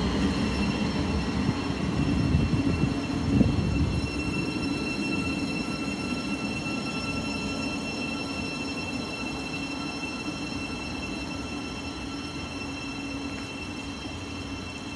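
A train running through the station and moving away, its rumble fading steadily, with several steady high tones held above it. There is a brief knock about three seconds in.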